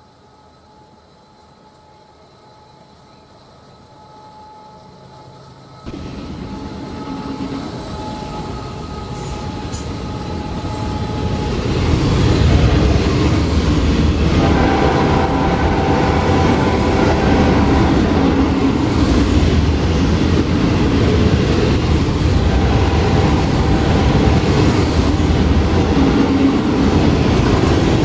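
Florida East Coast Railway freight train approaching and passing. It is faint at first, jumps in loudness about six seconds in, builds, and from about twelve seconds in settles into a steady loud rumble of the train's wheels on the rails.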